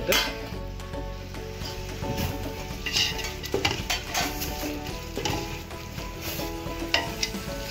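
Biryani masala of onion, tomato, mint and spices sizzling in a pot while a ladle stirs it, with several sharp scrapes of the ladle against the pot. Faint background music plays underneath.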